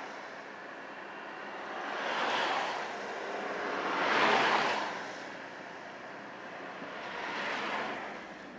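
Road traffic passing: three vehicles rush by one after another over a steady traffic hum, each a swell of tyre and engine noise that builds and fades, the loudest about halfway through.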